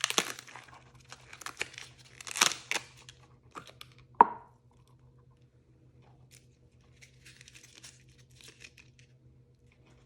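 Packaging being crinkled and torn open by hand, then a single sharp tap with a brief ring about four seconds in, followed by faint rustling.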